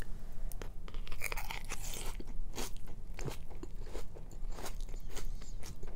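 Crunching and chewing of a mouthful of fresh vegetable salad with cucumber, leafy greens and noodles, in a string of irregular crisp crunches.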